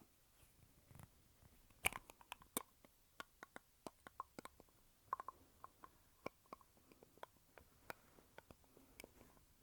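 Lipstick tube handled close to the microphone: a rapid, irregular run of small clicks and taps from the case and cap, the loudest about two seconds in.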